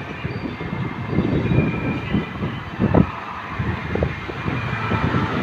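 Strong storm wind gusting and buffeting the microphone in irregular low rumbles, over a steady hiss of heavy rain.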